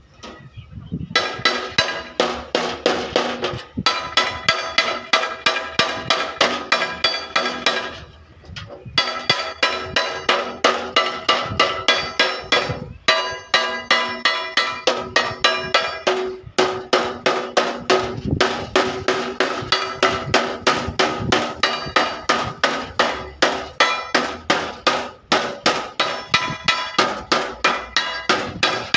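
Hammer beating out dents in the sheet-steel body panel of a Tata Ace pickup: fast, even blows, about three a second, each leaving the panel ringing, in runs broken by a few short pauses.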